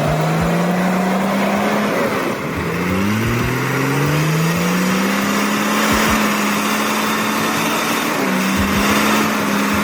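Six-cylinder turbo engine of a homemade log truck revving hard under load while stuck in mud, the truck straining to climb. The engine note climbs and holds high, falls back about two seconds in, then climbs again and holds, with a brief dip near the end.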